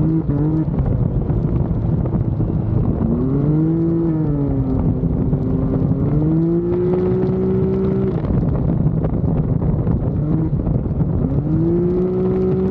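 Can-Am Maverick X3's turbocharged three-cylinder engine pulling hard and easing off in turn: the engine note climbs about three seconds in and dips, climbs and holds again from about six to eight seconds, then drops, and climbs once more near the end. A steady rush of wind and road noise runs underneath.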